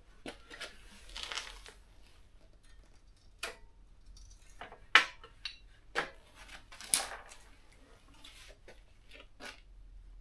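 Scattered clinks and knocks of small metal motorcycle parts and tools being handled at the workbench, with a short scraping rustle about a second in; the sharpest knock comes about five seconds in.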